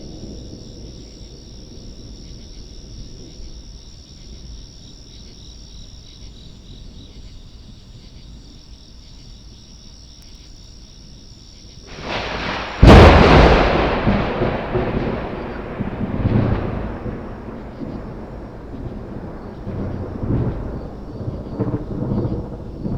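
Close lightning strike: a very loud sharp thunderclap about 13 s in, followed by long rolling thunder that fades with several further rumbles. About a second before the crack a hissing electrical crackle builds up, which the recordist takes for corona discharge ahead of the strike.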